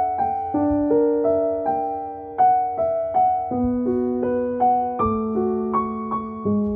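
Soft, slow piano music: single melody notes struck every half second or so over held bass notes, each note ringing and fading.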